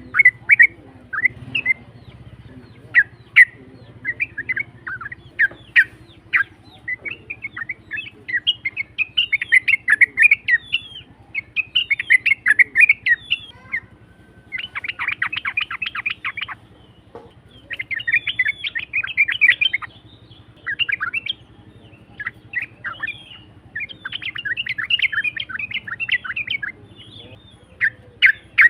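Yellow-vented bulbul (trucuk) singing: runs of rough, chattering phrases with short pauses, including a dense, rapid stretch about halfway through. A faint low hum runs underneath.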